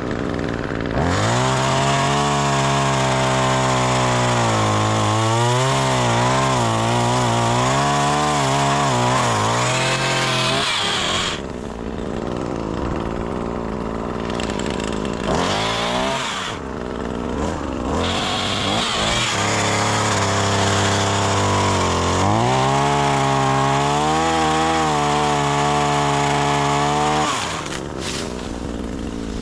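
Gas chainsaw revved up to high throttle twice, each time for several seconds with its pitch wavering up and down, and dropping back to a lower idle in between and near the end.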